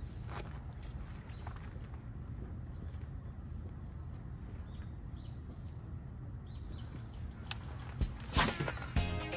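Small birds chirping over and over with short high calls, over a steady low outdoor rumble. Near the end come a few sharp clicks or knocks.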